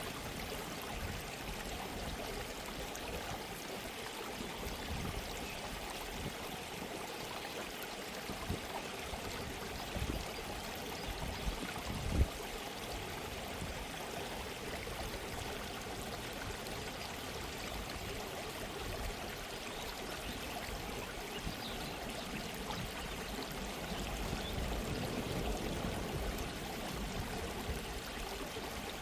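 Gentle stream running steadily. Once, about twelve seconds in, there is a brief low thump.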